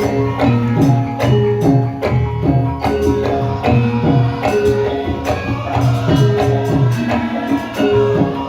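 Javanese gamelan music with a steady beat: hand-drum strokes sliding down in pitch under ringing metal notes.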